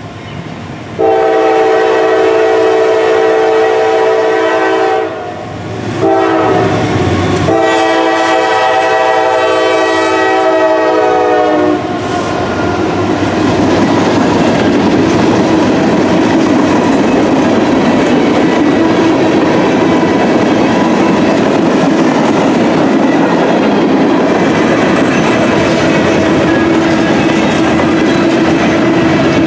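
Norfolk Southern GE AC44C6M locomotive's multi-chime air horn sounding for a grade crossing in three blasts: a long one, a short one, then a long one that stops about twelve seconds in. Empty coil steel freight cars then roll past steadily with wheel clatter on the rail joints.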